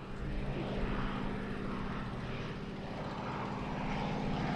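Piston-engined propeller aircraft flying past, its engine note steady and growing louder toward the end.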